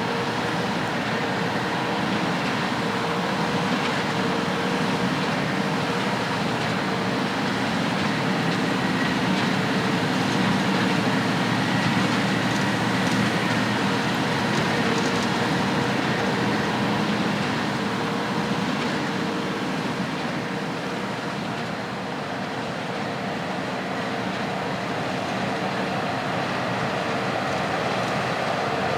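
Heavy farm machinery running steadily under load: a continuous engine and machine drone with a few faint steady tones, with no breaks or distinct impacts.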